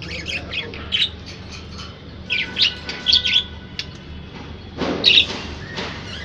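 Budgerigar chirping in short clusters of quick high chirps, the loudest and harshest cluster about five seconds in.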